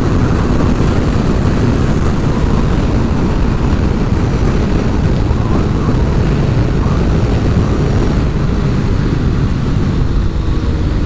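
Heavy wind noise on the microphone of a moving sport motorcycle, with the bike's engine running underneath. Near the end the engine pitch falls slowly as the bike slows.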